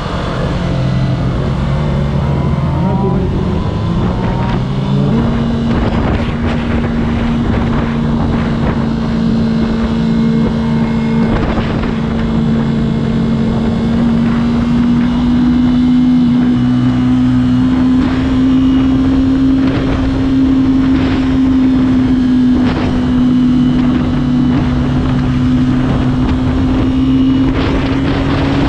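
Motorcycle engine running at a steady cruise; its note steps up about five seconds in, then holds and creeps slowly higher.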